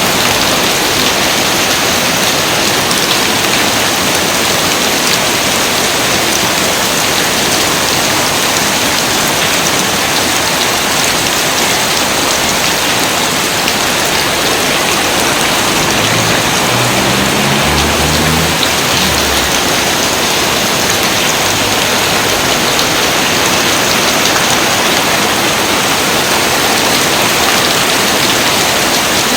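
Steady rain, a dense even hiss that never lets up. A faint low rumble comes in briefly a little past the middle.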